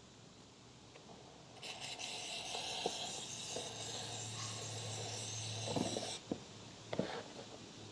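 WD-40 aerosol can spraying onto a motorcycle chain: one continuous hiss of about four and a half seconds, starting a couple of seconds in. A few light knocks and clicks of handling come during and after it.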